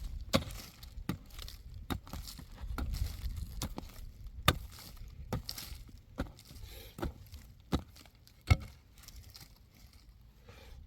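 A series of irregular sharp knocks and taps, roughly one a second, over a low rumble.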